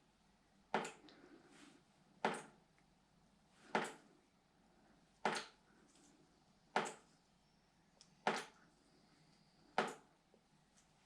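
Water from a ceiling leak dripping at a slow, steady rate, one drop about every second and a half, seven drops in all. The even spacing shows the leak is not speeding up.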